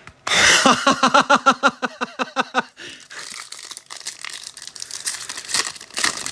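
Foil trading-card pack wrapper crinkling and tearing as the pack is opened. The first two seconds carry a quick run of pitched pulses, about five a second, before the rustling crackle takes over.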